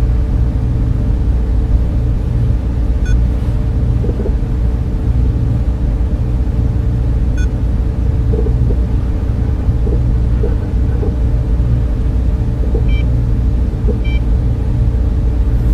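Server room cooling fans running steadily: a loud, even low hum and rush with a faint held tone above it, and a few faint brief high ticks scattered through.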